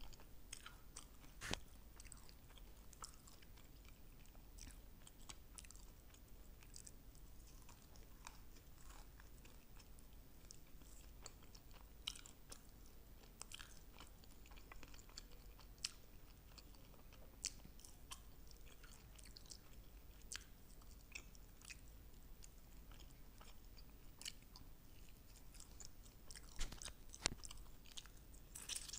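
Close-miked chewing and biting of sauced fried chicken wings: faint mouth sounds broken by many short crisp crunches and clicks, with the loudest ones about a second and a half in and again near the end.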